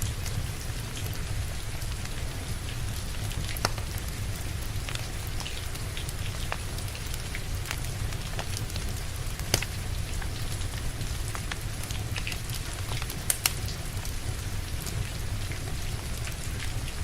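Steady rain with a low rumble, and the sharp, scattered pops of a crackling wood fire, a few louder snaps among them.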